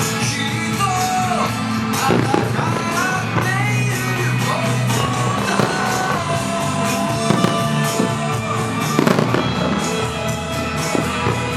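Aerial fireworks bursting, a handful of sharp bangs spread through, over loud continuous pop music played for the show.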